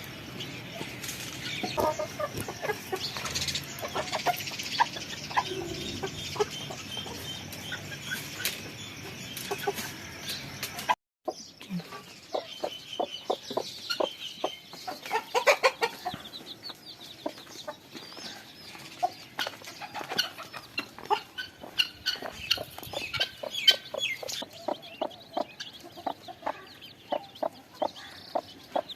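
Chickens clucking, with many short, irregular calls and a brief break about eleven seconds in.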